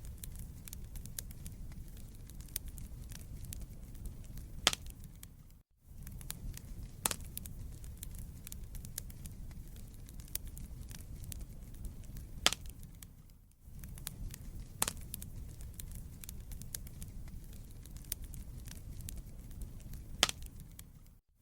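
Wood fire burning in a fireplace: a steady low rumble of flame under constant fine crackling, with a sharper pop from the burning logs every couple of seconds. The sound cuts out briefly twice, about six and thirteen seconds in.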